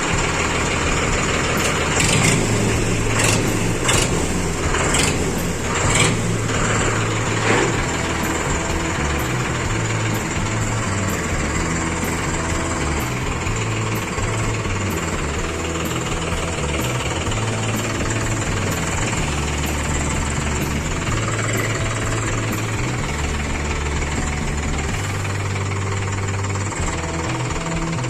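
A tractor's diesel engine running steadily at a low, throbbing idle, with a few sharp knocks or clanks in the first several seconds.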